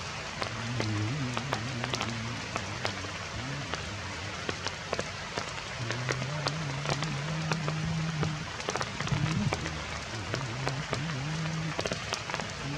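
Heavy rain falling, a steady hiss dotted with many sharp drop ticks. Under it runs a low hum that wavers and shifts pitch now and then.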